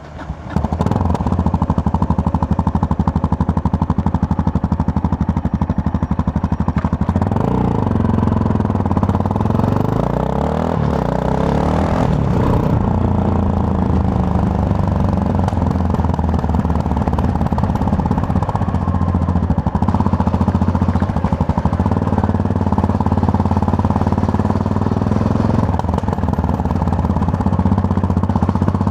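Yamaha MT-03 motorcycle's parallel-twin engine heard from the rider's position while riding, with a loud pulsing note. The revs rise and fall several times in the middle with throttle and gear changes, then settle to a steady cruise.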